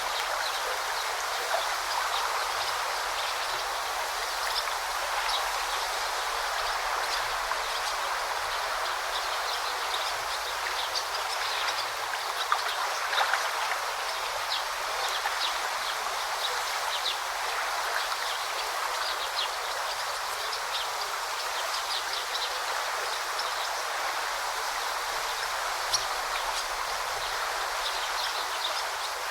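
Forest river flowing steadily with a continuous babbling rush, scattered with many short, high-pitched ticks.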